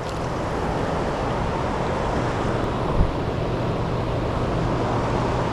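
Steady rushing noise of wind and fast-moving river water around a kayak, with a low steady hum underneath and a single thump about three seconds in.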